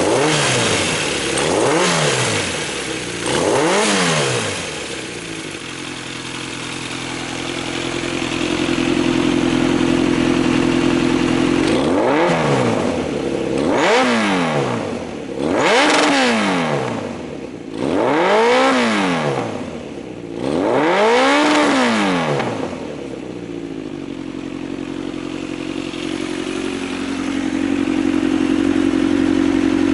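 Yamaha XJR1300 air-cooled inline-four motorcycle engine breathing through Keihin FCR41 carburettors, idling and being blipped by hand. Three quick revs rise and fall, then a steady idle, then five more revs a second or two apart, before it settles back to idle.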